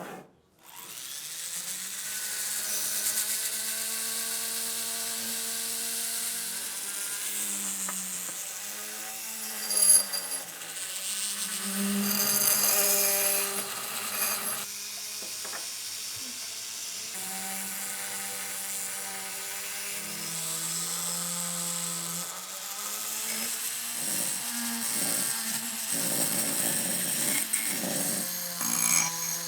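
A small handheld electric power tool running, its motor pitch dipping and recovering several times, with hiss from the work above it. A sharp knock stands out about a third of the way through.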